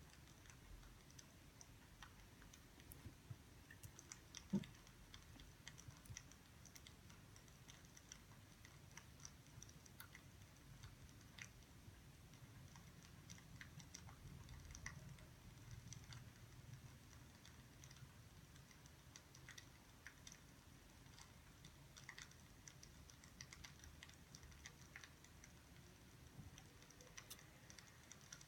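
Faint wood fire crackling, with small irregular pops and ticks, near silence overall. One soft, louder thump about four and a half seconds in.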